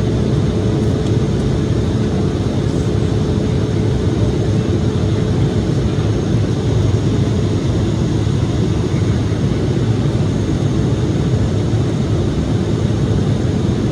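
Steady cabin noise inside an Embraer E-175 jet in flight: the rush of air and low drone of its two General Electric CF34 turbofan engines. A faint steady tone in the hum fades away about halfway through.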